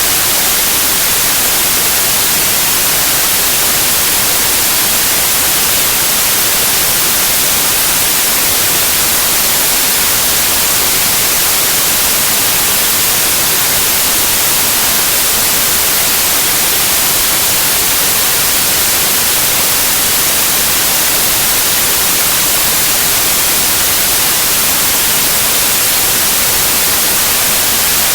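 Steady white noise: an even hiss, brightest in the high end, unchanging throughout.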